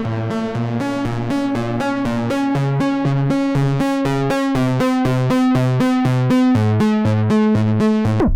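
Dreadbox Typhon monophonic analog synthesizer playing a factory preset: a fast repeating pattern of short pitched notes, about four a second, over a moving bass line. It stops abruptly at the end as a different sound begins.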